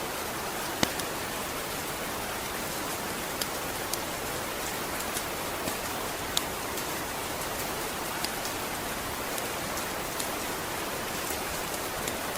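Steady rain falling, a dense even hiss with scattered sharp ticks over it, the two loudest a little under a second in and at about six and a half seconds.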